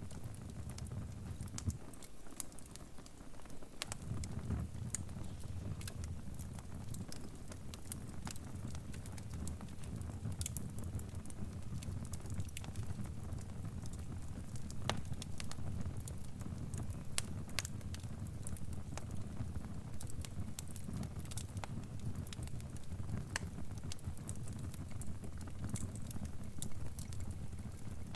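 Crackling fire: a steady low rumble of burning with scattered sharp pops and snaps.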